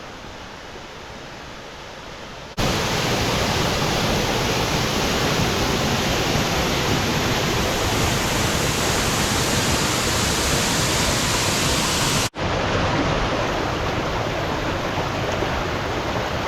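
Steady rushing roar of a waterfall, fairly soft for the first two and a half seconds, then abruptly much louder, with a momentary dropout about twelve seconds in.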